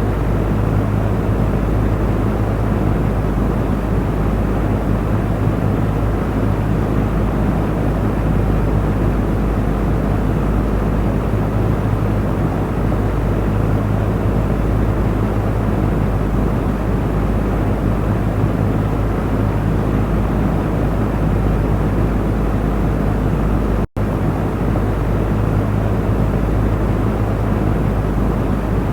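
Electric fan running steadily: an even whooshing rush of air over a low motor hum. The sound cuts out for an instant near the end.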